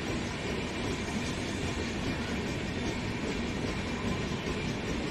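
Express passenger train arriving at a station platform: a steady rumble of wheels on the track, with a faint high steady tone above it.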